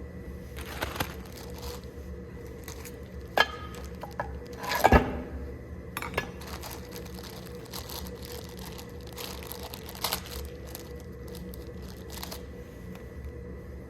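Metal engine parts and hand tools being handled during an engine rebuild: scattered light clinks and clicks, a sharp knock about three seconds in and a louder metallic clatter about five seconds in, over a steady low hum.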